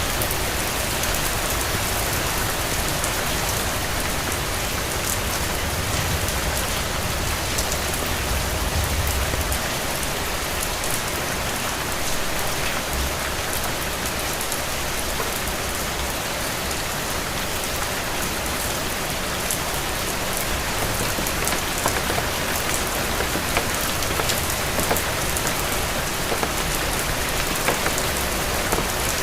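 Steady rain falling on a hard surface, with many separate drop ticks over an even hiss. A low rumble runs under it for roughly the first ten seconds.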